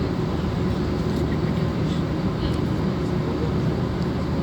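Steady low rumble of an Airbus A320's jet engines, holding an even level with no breaks.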